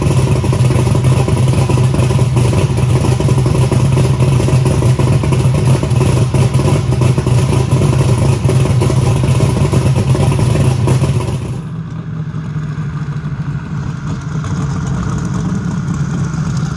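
Twin-turbocharged 7.3-litre Ford Godzilla V8 running steadily and loud. Its exhaust leaves the turbos and exits ahead of the front wheels with no mufflers. About twelve seconds in it cuts to the engine heard quieter.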